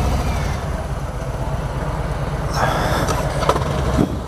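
Harley-Davidson V-twin motorcycle engine idling with a steady low, pulsing beat, just after being started.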